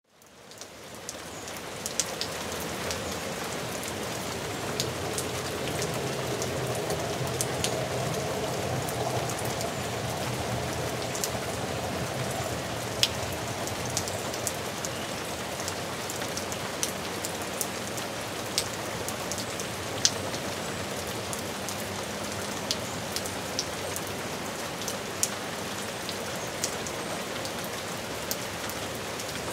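Steady rain falling, fading in over the first second or two, with single drops now and then landing in sharp, close taps.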